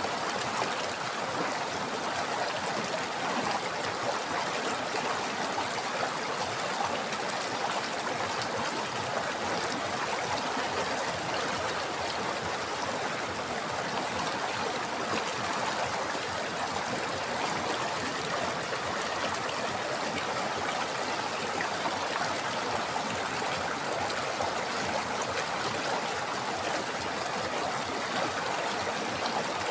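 A river flowing over stones, a steady rushing and gurgling of water without change.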